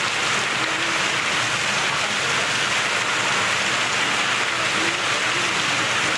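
Heavy rain pouring onto a flooded street, a dense steady hiss of drops striking the standing floodwater.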